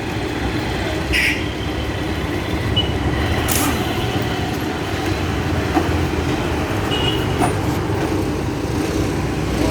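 Steady rumble of road traffic, with a few sharp metallic clicks and clinks from tools working on the motorcycle's engine.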